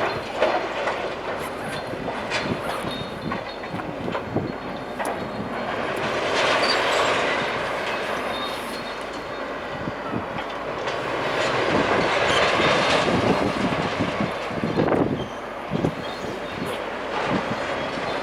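Demolition machinery working on a building: continuous clattering and crunching of broken concrete and metal with scraping and squealing, swelling louder twice, around a third of the way in and again past the middle.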